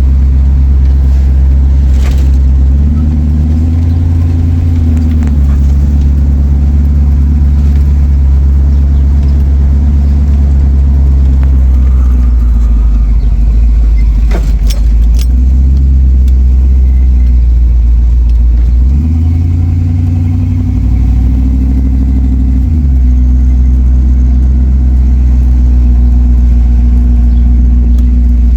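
Car engine running steadily with a loud low drone, its pitch stepping up and down a few times. A few brief clicks sound over it.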